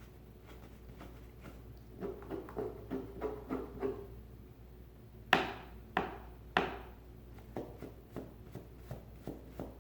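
A Santa Claus figure being handled and knocked: scattered small clicks and rubbing, then three sharp knocks about half a second apart.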